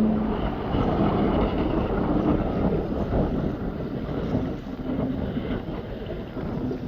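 Jet ski out on the water: wind buffeting the microphone and water rushing. A steady engine note dies away right at the start, leaving the engine only faint under the wind.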